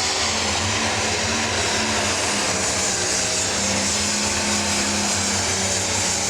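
Pro stock pulling tractor's turbocharged diesel engine running hard and steady, its pitch dipping slightly about two seconds in.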